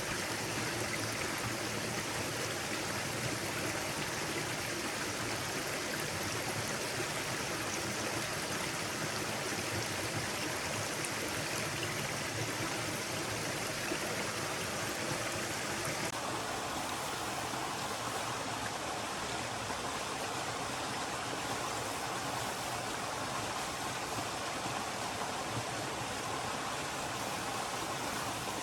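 A forest stream flowing steadily, a continuous rushing of water. A little past halfway the sound shifts abruptly to a slightly lower, fuller rush.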